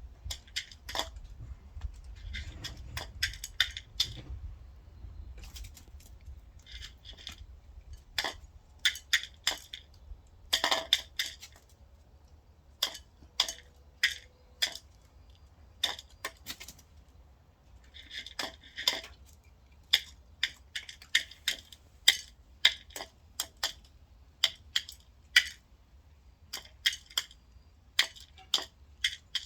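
Chicken's beak pecking at a hard food dish: sharp, irregular clinks, sometimes in quick runs of several.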